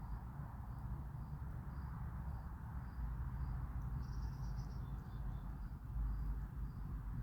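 Insect chirping in an even rhythm, about two short high chirps a second, with a brief faster trill about four seconds in, over a steady low rumble.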